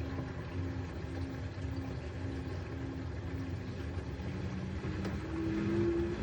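LG F4C510GBTN1 washing machine running a spin, its hum pulsing about twice a second with each turn of the drum, then the motor whine rising from about four seconds in as the drum speeds up. The spin is the kind that sets this machine jumping.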